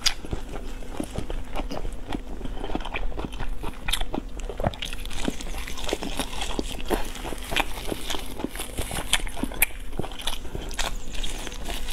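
Close-miked chewing and biting on glazed meat, with irregular short sharp clicks several times a second.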